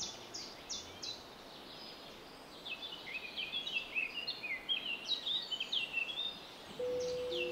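Birds chirping: a few quick falling calls at first, then a busy run of varied chirps in the middle. A steady pitched tone comes in near the end.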